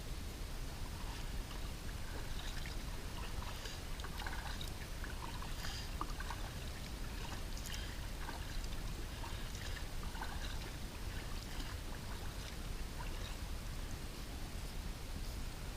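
Small splashes and trickles of lake water around a kayak being paddled, over a steady low rumble.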